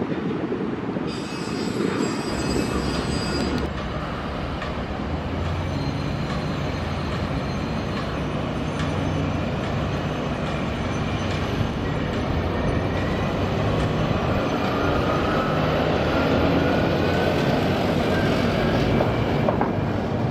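Heavy diesel machinery running steadily, with high metallic squealing a second or so in and a slowly rising whine over the last few seconds.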